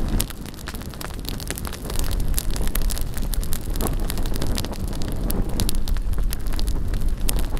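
Wood bonfire crackling with frequent sharp, irregular pops, over a heavy rumble of wind on the microphone.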